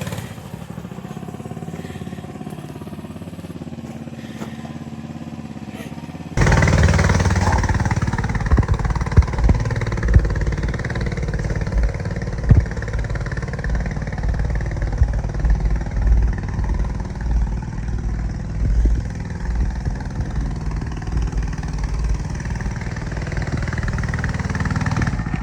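Small 100cc minibike engine running, quietly at first. About six seconds in it turns abruptly much louder and rougher, with scattered knocks, and stays that way.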